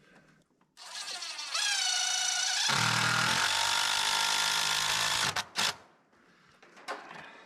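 Cordless drill driving a screw. It spins up with a rising whine, then runs lower and heavier under load for a few seconds before stopping, followed by one short extra trigger pull.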